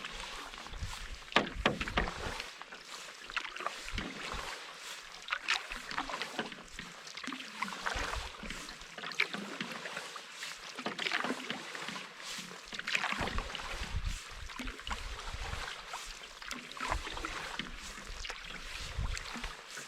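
Canoe paddle strokes dipping and splashing in the water, repeating every second or two, with wind buffeting the microphone at times.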